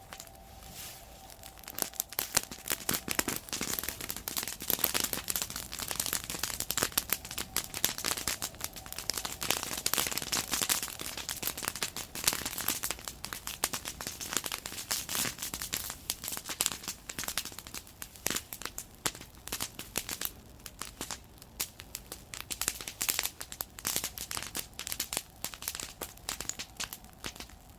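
Wood bonfire crackling and popping, with dense rapid snaps that pick up about two seconds in.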